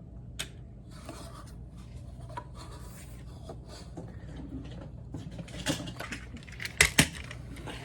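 Toys being handled on a surface: soft rubbing and scraping with scattered small clicks, and two sharp clicks close together about seven seconds in.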